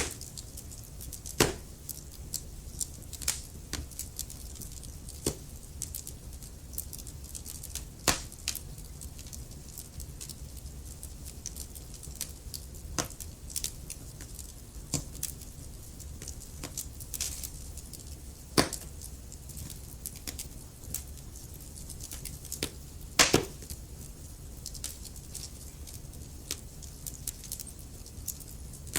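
Wood fire crackling in a fireplace: irregular sharp pops and snaps over a low steady rumble of the flames, with the loudest pops about a second and a half in, around eight seconds, and a double pop around twenty-three seconds.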